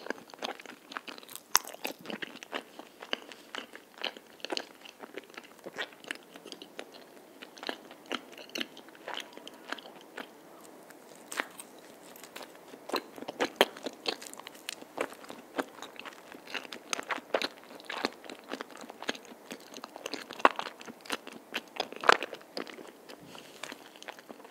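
Close-miked chewing of a soft melon cream-filled rice cake (tteok), with many small, irregular mouth clicks and smacks as it is bitten and chewed.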